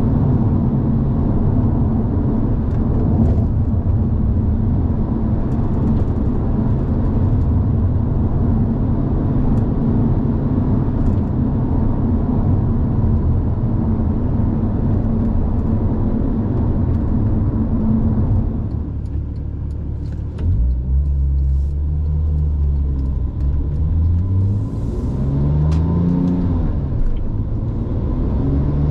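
2007 Porsche 911 Turbo's twin-turbo flat-six engine pulling steadily with road noise while driving. After a short dip about two-thirds of the way through, it accelerates, the engine pitch rising and falling back several times through gear changes.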